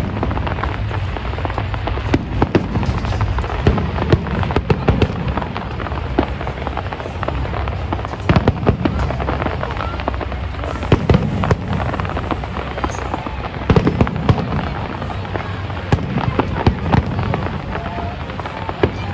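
Fireworks display: a rapid, irregular run of bangs and crackles going off one after another, over a steady low rumble.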